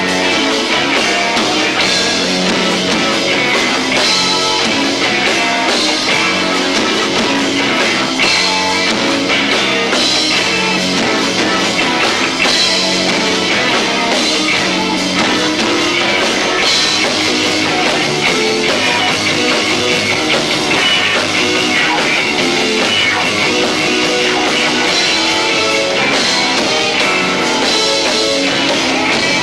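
Live rock band with two drum kits and guitar playing loud, dense rock, recorded straight through a 1990s camcorder's built-in microphone, so the sound is low-fi.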